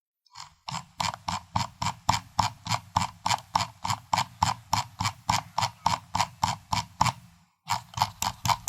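Computer mouse scroll wheel turned notch by notch, giving an even run of clicks about four to five a second. The clicks break off briefly near the end, then start again.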